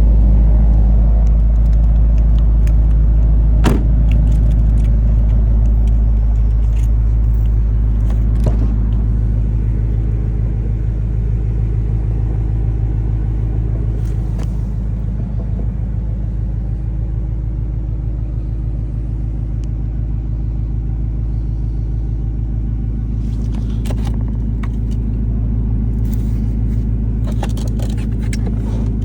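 A vehicle's engine running steadily with a deep rumble, easing slightly over the first dozen seconds and then holding even, with a few short clicks scattered through it.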